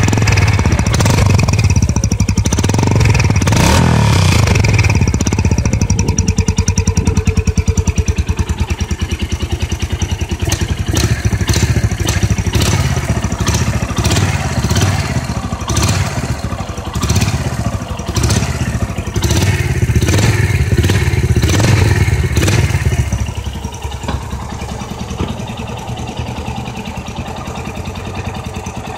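Mash 250cc motorcycle engine running loudly and being blipped, with repeated short rises in revs through the middle. About three-quarters of the way in it drops back to a steady, quieter idle.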